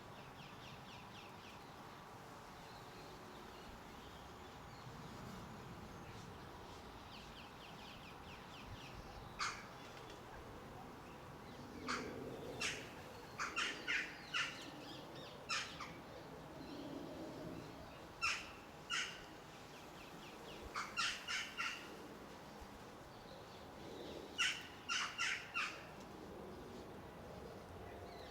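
Garden birds calling: short harsh calls of a crow-family bird, some single and some in quick runs of three or four, repeating from about a third of the way in. Faint high chirps of small birds sound at the start and again before the first harsh call.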